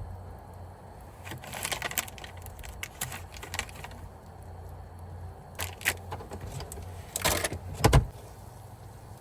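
Rattling, clinking and knocking of hard objects being handled in three bursts, ending in a heavy thump near the end, over a low steady hum.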